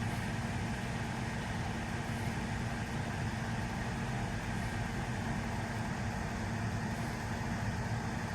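A motor vehicle engine idling steadily, an even low hum with no change in level.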